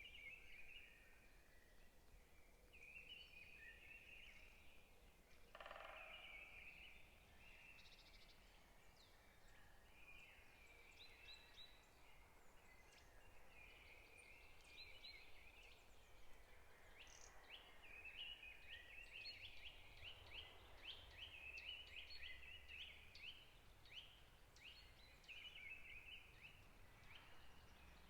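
Faint chorus of forest songbirds chirping, the calls coming thicker and quicker in the second half, over a low steady rumble.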